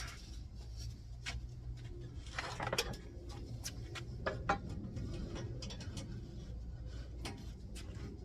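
Scattered knocks and clicks, a few louder around the middle, over a steady low hum.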